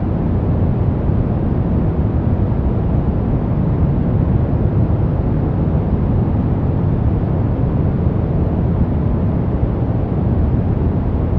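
Steady brown noise: an even, deep rushing hiss, strongest in the low end and falling away toward the highs, with no changes.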